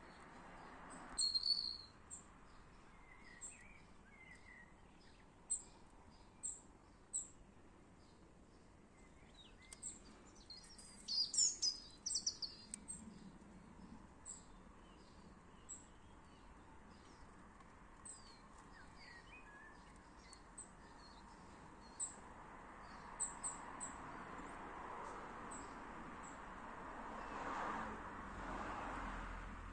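Garden birds chirping and singing, faint: scattered short high chirps throughout, with a busier burst of song about eleven seconds in. A soft rushing sound swells in the last few seconds.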